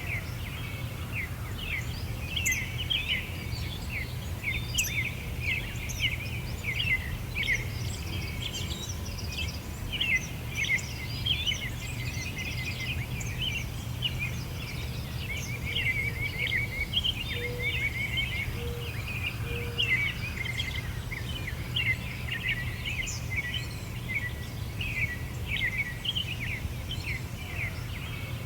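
Many small songbirds chirping and twittering in a dense, continuous chorus over a steady low rumble, with three short low notes a little past the middle.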